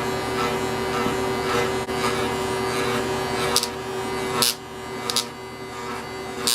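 Electric pet hair clippers buzzing steadily while shaving a cat, dropping in level about halfway through. A few short sharp high-pitched noises cut in over the second half.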